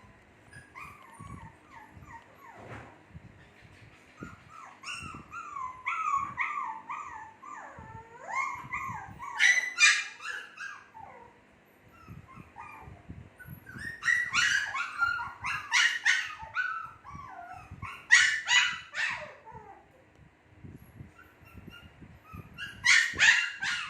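Two-month-old Shih Tzu puppies whimpering and yipping: high, wavering whines that break into several louder bursts of sharp yips.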